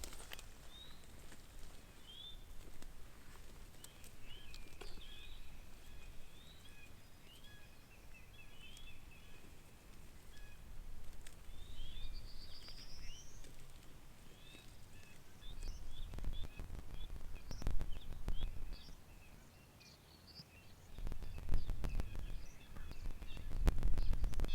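Small songbirds chirping and calling over each other in short, repeated phrases. From about two-thirds of the way in, low rumbling and knocks come and go, louder near the end.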